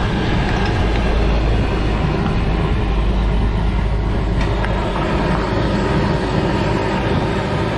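Steady low rumble under broad noise, swelling for the first few seconds, as of heavy road traffic passing.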